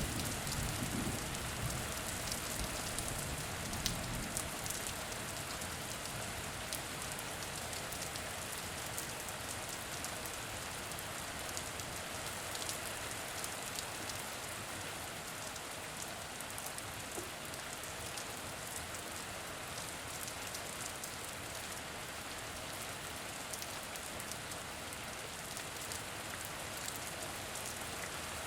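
Steady rain falling, with many individual drops ticking on a surface, and a low rumble during the first few seconds.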